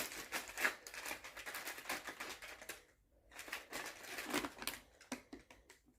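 Packing paper crinkling and rustling in quick crackles as a cat plays in it, with a brief pause about halfway through.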